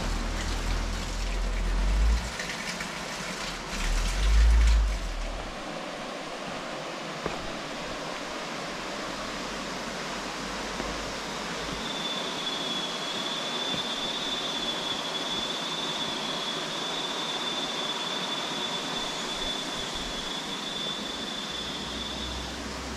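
Steady rain in the forest, an even hiss. There are two low rumbles in the first five seconds. About halfway through, a thin, steady high-pitched tone starts, holds for about ten seconds, then stops.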